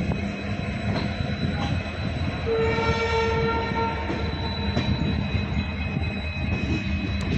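Indian Railways passenger train running, with a steady rumble and a few sharp rail-joint clicks. A train horn sounds once, starting about two and a half seconds in and lasting about a second and a half.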